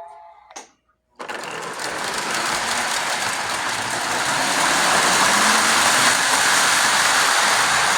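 Lionel model trains running on their track: a steady mechanical rumble that starts abruptly about a second in, grows louder over the next few seconds and then holds.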